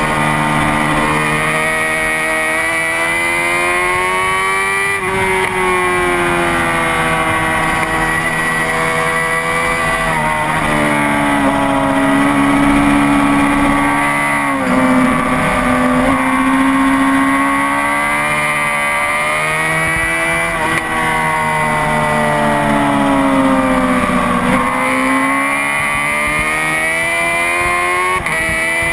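Honda CBR600RR inline-four sport bike engine lapping a race track at high revs. The pitch climbs and drops back at each upshift, and twice sags low as the bike slows and downshifts for corners before climbing again.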